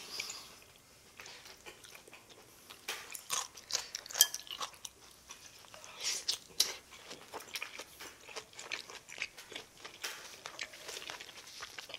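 A person biting into and chewing a cabbage-leaf wrap of spicy stir-fried pork, close-miked, with irregular wet mouth clicks and crunches. The chewing starts about a second in and comes in denser clusters around the middle.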